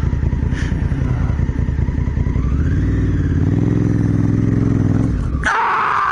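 Motorcycle engine running, its pitch rising as it revs up about halfway through and holding. Near the end the engine drops away and a loud rushing, hissing noise takes over.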